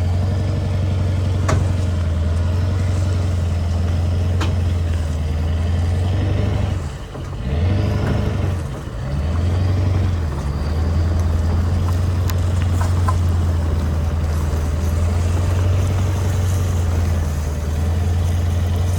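Pickup truck engine running steadily under load while towing a dead truck up a hill, easing off briefly twice, about seven and nine seconds in.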